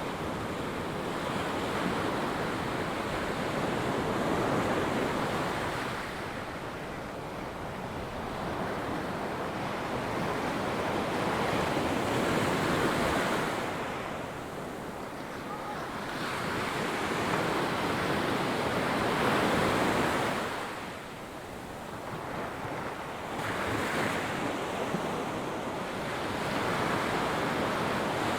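Ocean waves breaking and washing up the beach, the surf rising and falling in repeated swells every several seconds, with some wind on the microphone.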